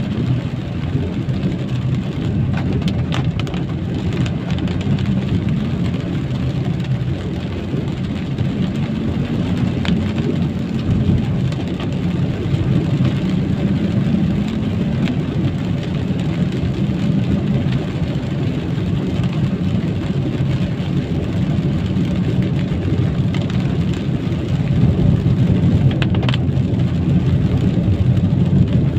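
A vehicle driving through rain on a wet road: steady tyre and rain noise over a low engine hum, with a few light ticks.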